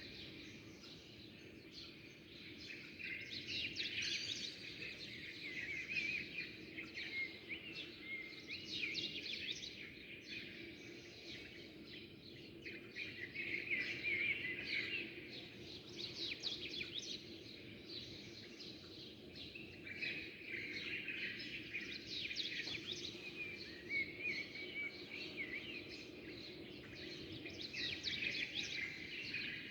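A flock of small birds chirping and twittering together, a dense chatter of rapid chirps that swells and fades several times. A steady low hum lies underneath.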